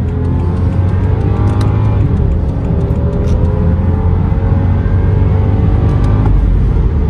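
BMW 535i's 3.0-litre turbocharged straight-six accelerating, heard from inside the cabin: the engine note climbs in pitch over a steady low rumble of road noise.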